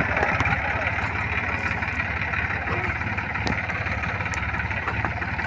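Tractor diesel engine running steadily, with an even, rapid low firing pulse.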